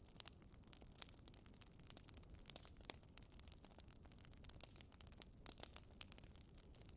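Faint crackling of a wood fire in a fireplace: irregular small pops and snaps, several a second, over a low steady rumble.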